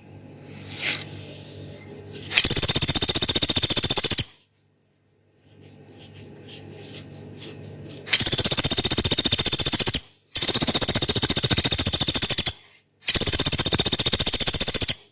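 Pelatuk beras, a small pygmy woodpecker, giving four long, harsh, rapid high-pitched trills of about two seconds each, the last three in quick succession, with fainter softer chattering between.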